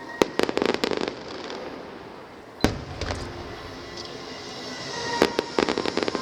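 Fireworks going off: a rapid cluster of sharp crackling reports in the first second and a half, one louder single bang near the middle, and another crackling cluster near the end. Background music plays underneath.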